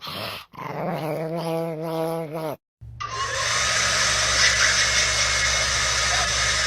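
A dog vocalising in long, drawn-out wavering howls, broken by a short pause, then cut off after about two and a half seconds. After that comes a steady rushing noise with a low hum.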